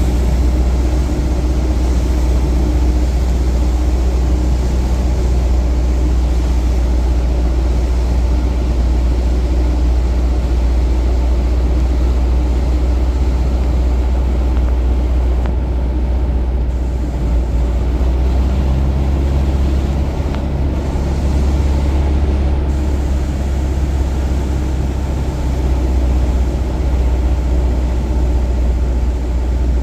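Cessna 177 Cardinal's single piston engine and propeller, a loud steady drone heard on board the aircraft.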